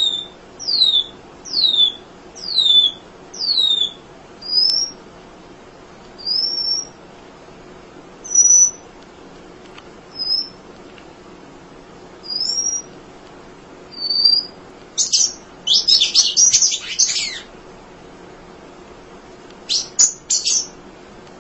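Munia (emprit) calling. First comes a series of thin high whistles, each falling in pitch, about one every 0.7 s. Then come scattered short single notes, and a rapid burst of chattering notes about two-thirds of the way through and again briefly near the end.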